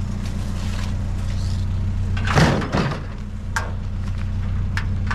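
Vehicle engine idling with a steady low hum, and one loud clatter about two and a half seconds in, followed by a couple of light knocks, as the vacuum cleaner is loaded into the truck.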